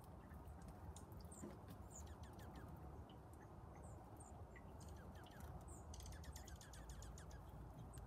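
Faint chirps and short calls of small birds scattered throughout, with a quick run of ticks about six seconds in, over a low steady rumble.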